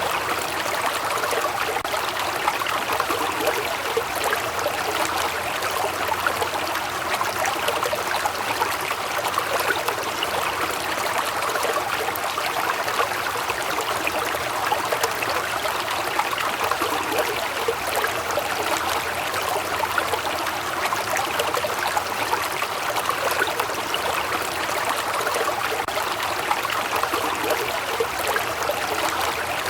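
Waterfall, water falling and running over rocks with a steady, even rush and fine splashing.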